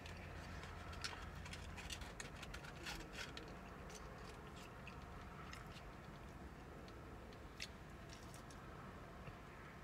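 A person chewing chicken nuggets close to the microphone, with crisp mouth clicks and smacks bunched in the first few seconds and one sharper click near the end, over a low steady hum.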